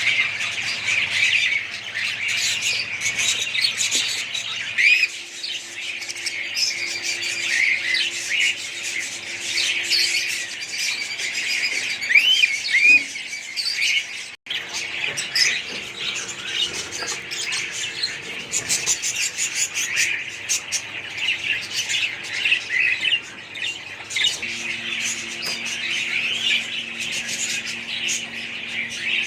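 Many small parrots chattering together, a dense, continuous mix of chirps and squawks, with a momentary break about halfway through.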